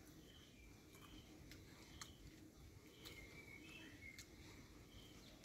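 Near silence: outdoor ambience with faint, short, high chirps from birds, repeating every half-second or so, a few of them sliding in pitch.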